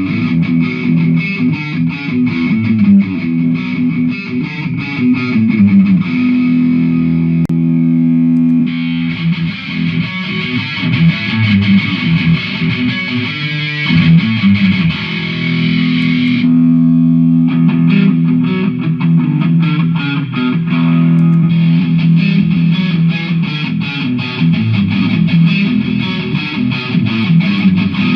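Distorted electric guitar played through a Mooer GE150 multi-effects pedal: runs of fast picked notes, broken several times by chords held for a few seconds.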